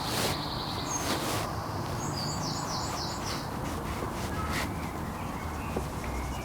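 Birds calling outdoors: a run of short, high repeated chirps about two to three seconds in, plus a few harsher calls, over a steady low background noise.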